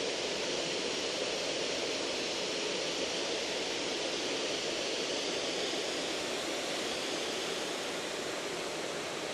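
Steady rush of flowing water, even and unbroken, like a cascade or weir between lakes.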